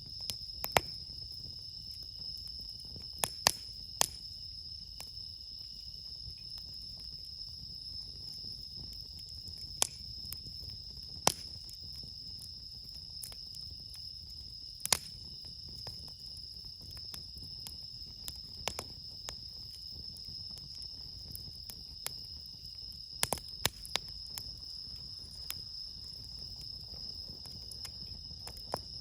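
Crickets singing in a steady, high, continuous trill, with sharp irregular pops and crackles from burning wood in a campfire.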